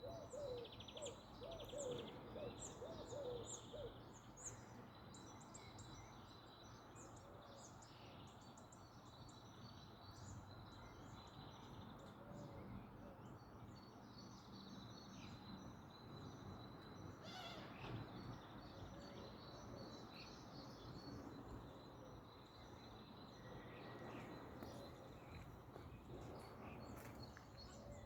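Faint birdsong: many short, high chirps from small birds, over a steady low background hum. In the first few seconds a bird repeats a lower note quickly several times.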